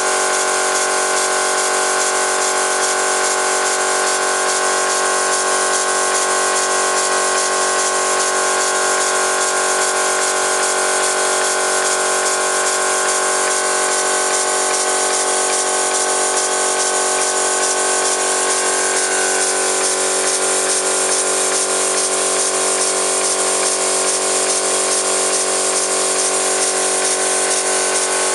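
Home-built oscillating steam engine running steadily, its steam hissing with a rapid, even exhaust beat; its tone shifts slightly about two-thirds of the way through.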